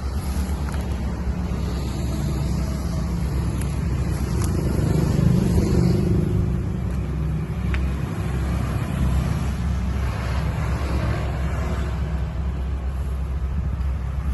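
Harley-Davidson Twin Cam 88 V-twin engine running through Vance & Hines exhaust pipes with a deep, steady rumble, its throttle opened so it swells briefly about five seconds in before settling back.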